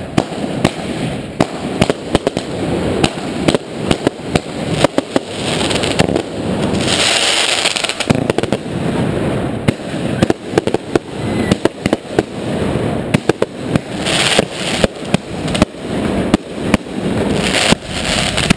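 New Year's Eve fireworks going off all around: a dense, uneven string of sharp bangs and cracks, with longer hissing rushes about seven seconds in and again near the end as rockets and aerial shells go up and burst.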